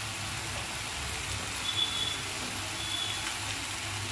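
Mushrooms frying in oil in a kadai, a steady soft sizzle with a low hum underneath. Two faint, brief high whistle-like tones sound around the middle.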